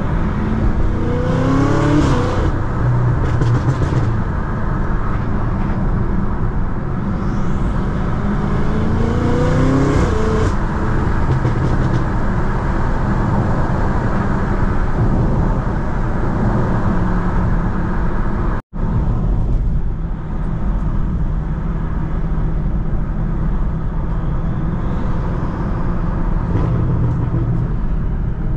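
BMW F90 M5's twin-turbo V8, tuned to Stage 2, pulling hard twice with its pitch rising each time, over steady road and tyre noise. The sound drops out for an instant about two-thirds of the way through, then the engine settles into steady cruising.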